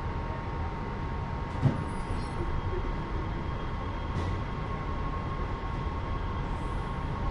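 Los Angeles Metro Rail train running: a steady low rumble with a constant whine, and a single sharp knock about a second and a half in.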